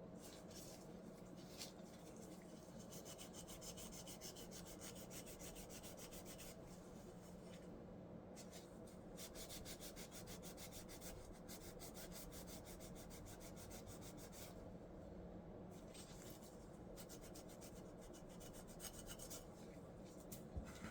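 Faint, quick rubbing strokes by hand, several a second, in three spells of several seconds each with short pauses between, typical of scrubbing or sanding a small part.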